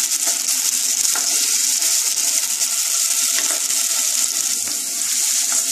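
Diced potatoes sizzling steadily as they fry in hot vegetable oil in a nonstick kadai, with a few light scrapes of a wooden spatula stirring them.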